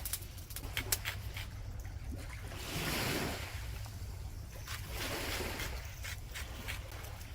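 Sea waves washing onto the shore, one surge swelling about three seconds in and another around five seconds, over a steady low wind rumble, with scattered sharp clicks.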